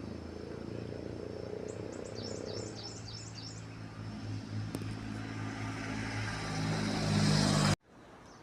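Engine running steadily with a low hum, growing louder toward the end and then cutting off suddenly near the end; a quick run of high chirps about two seconds in.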